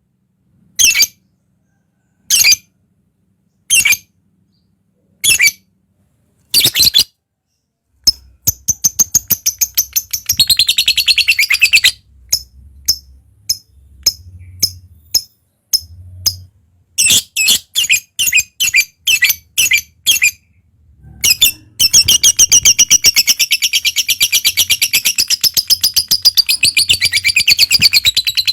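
Lovebird calling: a few sharp single chirps about a second and a half apart, then quick runs of rapid chattering, and from about three quarters of the way through a long unbroken high chattering trill, the 'ngekek' call.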